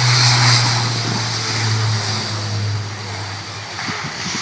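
Airbus A400M's four turboprop engines, heard as a steady low propeller drone over a broad rushing noise. The sound grows fainter, and the low drone drops away near the end.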